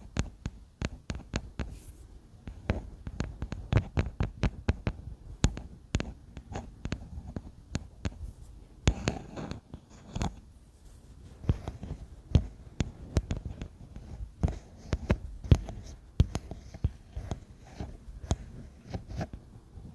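Fingers tapping close to the microphone: quick, irregular taps, several a second, some in rapid clusters, each with a soft low thud.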